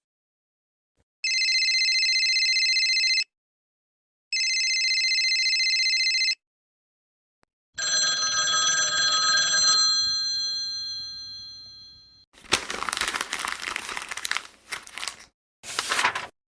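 A telephone ringing twice, each ring about two seconds long with a short gap between. It is followed by a ringing tone that fades away over about four seconds, then a stretch of crackling noise.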